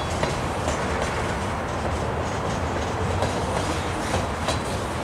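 Freight train cars rolling past at steady speed: a continuous rumble of steel wheels on rail, with scattered sharp clicks and clanks as the wheels cross rail joints.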